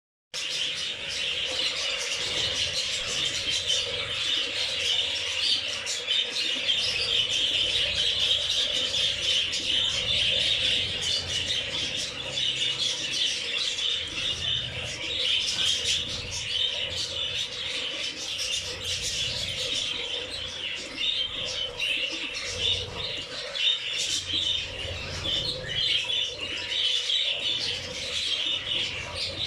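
A flock of budgerigars and zebra finches chattering and chirping continuously while bathing, with wings flapping and fluttering.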